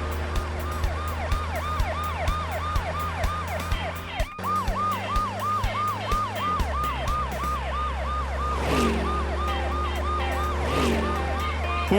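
Cartoon police car siren in a fast yelp, its pitch falling and repeating about three times a second, with a brief break about four seconds in. Background music with a steady beat and low bass runs under it, and two swooping whooshes come near the end.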